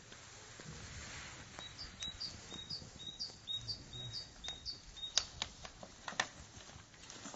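A bird singing a run of short, evenly repeated high chirps, about two to three a second, for a few seconds. Near the end come a few sharp clicks, the loudest sounds.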